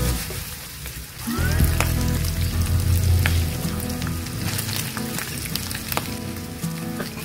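Ground pork sizzling in a frying pan as it is stirred with a wooden spoon, with a few sharp clicks. Cubes of fried potato are tipped into the pan about halfway through.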